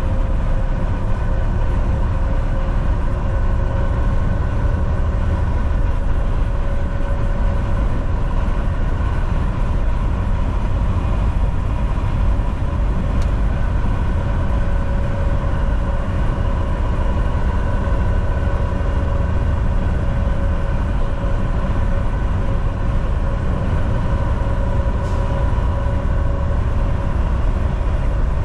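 Volvo VNL 760 semi-truck cruising on the highway: a steady engine drone and heavy road rumble with a constant whine held over it. Two faint ticks come through, one about halfway and one near the end.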